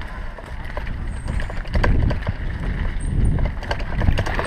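Bicycle ridden over rough ground, its frame and parts rattling and knocking irregularly over a low rumble.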